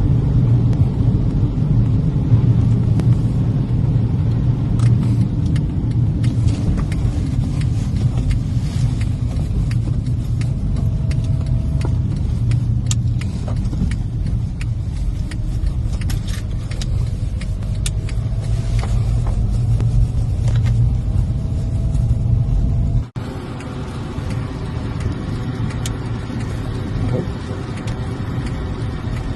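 Car driving on snow-covered roads: a steady low rumble of tyres and engine heard inside the car, with scattered faint clicks. About three-quarters of the way through the sound drops suddenly and continues quieter.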